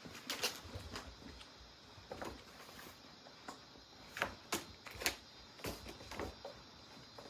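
Cats playing: irregular light knocks, taps and scuffles, coming in quick clusters, the sharpest about four to five seconds in.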